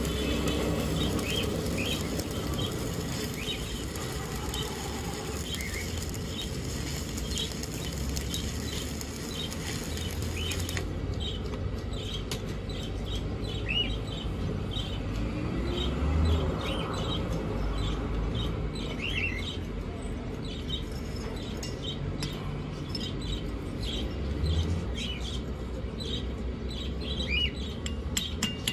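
Small birds chirping over and over, a call or two each second. For roughly the first eleven seconds the steady hiss and crackle of an electric arc weld runs under the chirps, then cuts off abruptly.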